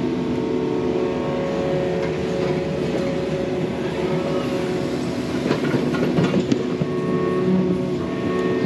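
Yanmar mini excavator's diesel engine running steadily under working load, with a cluster of metallic clanks and rattles a little past the middle.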